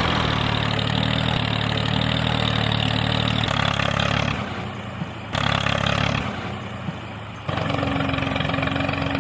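A small engine running steadily, driving a DIY miniature bulldozer-tractor. It drops quieter twice, about four seconds in and again near seven seconds, each time coming back abruptly.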